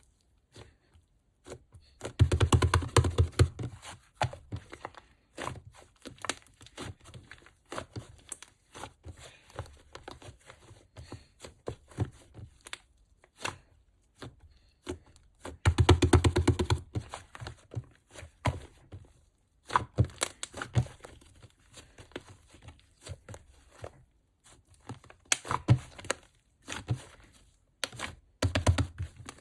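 Slime being squeezed and worked by hand, making rapid wet clicks and pops, with louder runs of popping about two seconds in, midway, and near the end.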